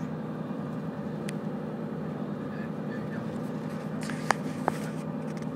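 Steady running rumble of a moving train heard from inside the carriage. Two sharp clicks about half a second apart stand out about four seconds in.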